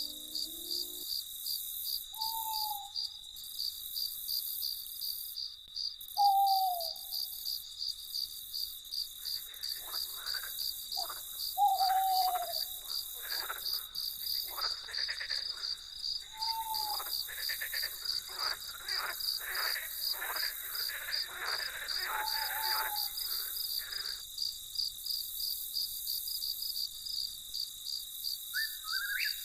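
Crickets chirping steadily in fast, even pulses through the night. About every four to six seconds a short, falling, hoot-like call sounds. Midway there is a run of rapid rasping calls that stops a few seconds before the end.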